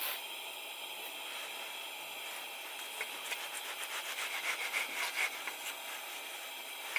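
A quick run of scraping strokes lasting about three seconds, starting about three seconds in, over a steady hiss.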